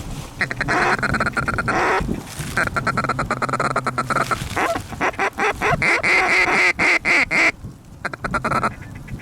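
Rapid goose calling: quick runs of clucks and honks on short-reed Canada goose calls, used to bring in a flock of geese that are locked up and coming in. Four runs with brief breaks between them.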